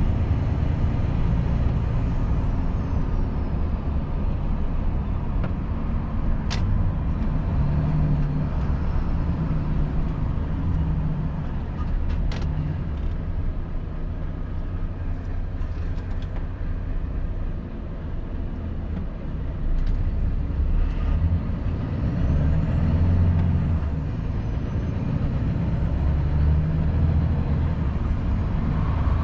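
Volvo FH 500 truck's diesel engine running while driving, with the engine note and a faint high whine rising and falling. A few sharp clicks come through along the way.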